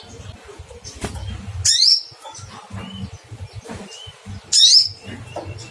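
Olive-backed sunbird calling: two loud, sharp "cuit" notes, each falling in pitch, about three seconds apart, with faint softer chirps in between.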